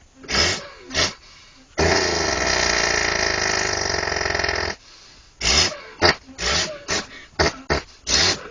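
A child's voice imitating a heavy truck's engine: two short grunts, then a long steady rumbling drone for about three seconds, then a quick run of short bursts near the end.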